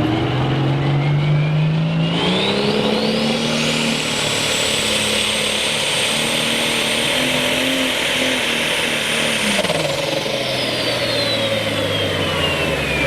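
Turbocharged super stock pulling tractor running flat out with the sled. Its engine note climbs about two seconds in under a high turbo whine that rises, holds, and falls away from about ten seconds in as the engine fades. The engine fluttering as it dies marks a failed pull that stops about two-thirds of the way down the track.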